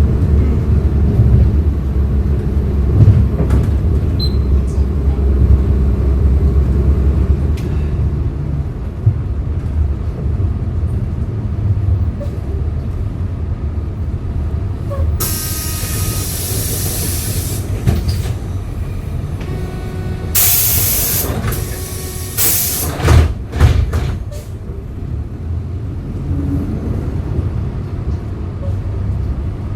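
A 2011 Hyundai Green City CNG city bus, heard from inside: the engine runs under load, then eases off to a lower, quieter run about eight seconds in. Twice, past the middle, a long loud hiss of released compressed air, followed by a few heavy thumps.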